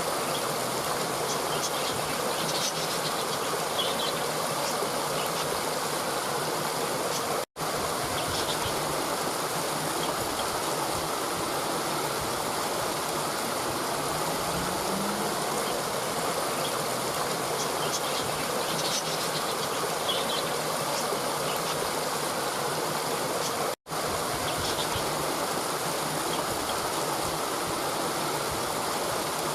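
Stream water running steadily, with a few faint bird chirps. The sound cuts out for an instant twice.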